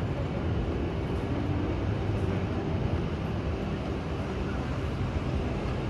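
Shinkansen train at the station, heard from the street outside the building as a steady low rumble.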